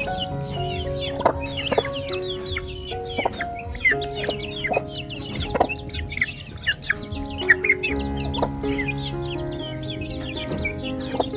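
A flock of chickens clucking, with many high, short peeps throughout, over background music with held notes. A few sharp clicks stand out.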